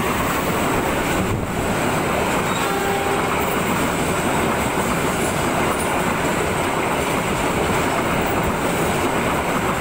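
Passenger train coaches passing at speed close by: a loud, steady rush of steel wheels running on the rails.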